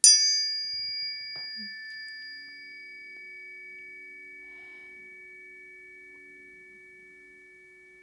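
Planetary tuning forks struck with a bright metallic ting, then ringing in several steady pure tones that slowly fade. Lower tones join the high ones about a second and a half in.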